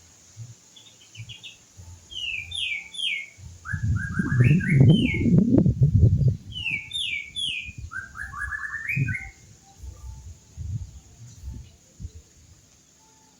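Canary singing in short trills of rapidly repeated notes. A low rumbling noise underneath is loudest from about four to six seconds in.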